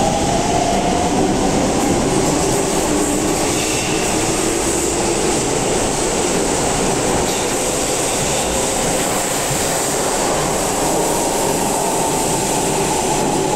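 Hokuso Railway 9100 series electric train pulling out of an underground subway platform, its motor whine rising as it gathers speed over a steady loud rumble and clatter of wheels on the rails.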